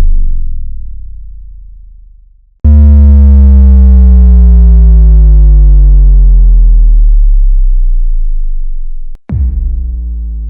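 Synthesized bass drop sound effects: a deep tone dies away, then a new one hits about two and a half seconds in and slides slowly down in pitch for several seconds before cutting off, and a third one hits near the end and starts its own downward slide.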